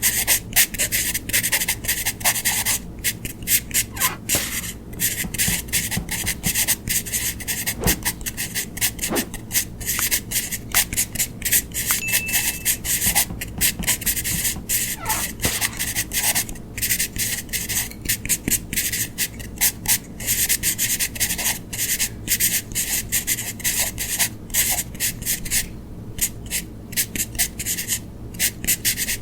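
Drawing strokes on paper: a continuous run of short, scratchy strokes, several a second, as the outline of a drawing is sketched.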